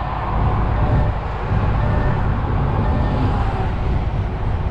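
Steady low rumble of a DAF XF truck driving on the road, engine and road noise as heard inside the cab.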